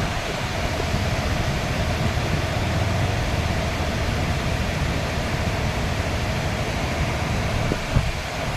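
Steady rushing of a swollen monsoon river or dam outflow, with one short thump near the end.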